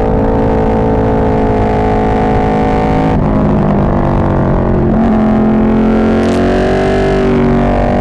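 Ducati 1299 Panigale's L-twin engine through an Austin Racing GP2 full exhaust system, loud and distorted because the microphone is overloaded by the exhaust. The note holds steady, breaks about three seconds in, then rises in pitch as the engine revs up and drops sharply near the end.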